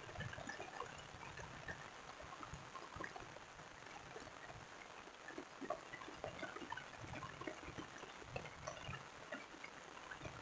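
Rain falling: a steady hiss with many small irregular drop ticks and splashes.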